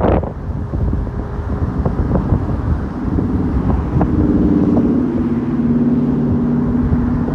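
Strong wind buffeting the microphone, a loud low rumble. About three seconds in, a steady low hum joins it.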